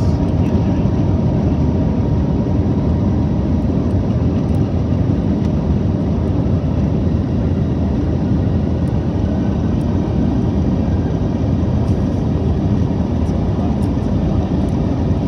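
Steady jet engine and airflow noise heard inside the cabin of an Airbus A321neo during takeoff and initial climb, a constant low rumble with a faint steady tone.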